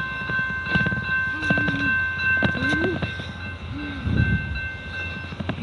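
Freight train running on the tracks: a low rumble with steady high-pitched tones ringing above it and scattered knocks.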